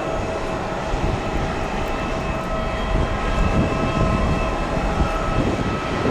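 Jet airliner engines running with a steady high whine over a heavy, gusty rumble.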